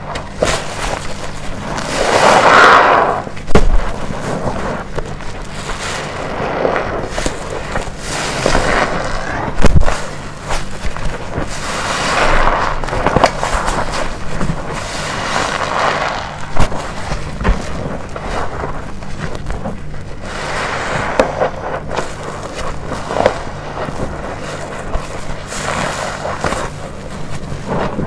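A black waffle-textured car wash sponge loaded with detergent being squeezed again and again, every second or two, each squeeze a wet squelch with foam crackling. A few sharp thumps stand out, the loudest about three and a half and ten seconds in.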